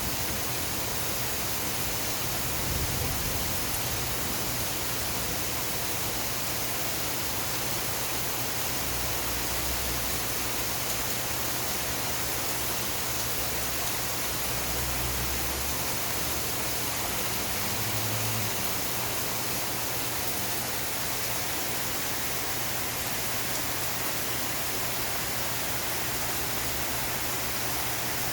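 Steady rain falling, an even hiss, with a few faint low rumbles underneath.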